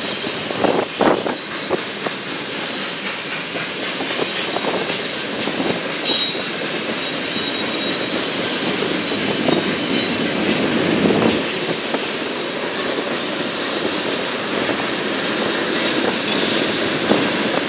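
Union Pacific freight train's cars rolling steadily past: a continuous rumble of steel wheels on the rails with clicking over the rail joints near the start and a faint, thin wheel squeal for a few seconds.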